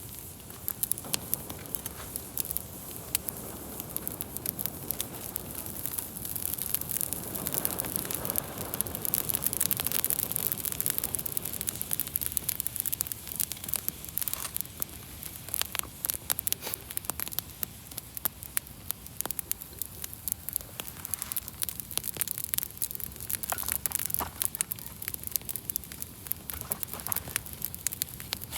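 Wood campfire crackling, with many small sharp pops and snaps over a soft hiss of burning, and a gentle rushing swell of the flames about eight seconds in.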